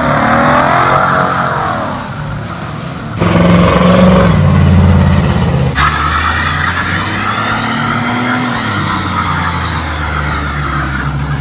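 Car engines revving hard, rising and falling in pitch across quick cuts between clips, louder after a cut about three seconds in: a Ford Mustang spinning donuts, then a Chevrolet S-10 pickup held at high revs in a smoky burnout.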